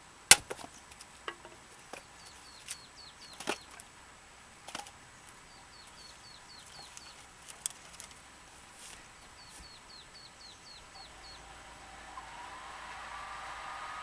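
Sharp wooden knocks and clunks from firewood being split and handled with an axe: one loud knock just after the start, then lighter irregular ones. A small bird repeats a quick high chirping phrase in several bouts, and a faint rising hum comes in near the end.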